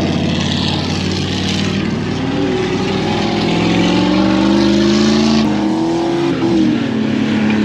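Off-road truck engines running hard under throttle, the pitch climbing through the middle and dropping back off about two-thirds of the way in.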